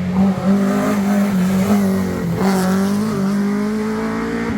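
Historic rally car engine running hard at high revs, with a brief dip in pitch about halfway through before the note climbs again.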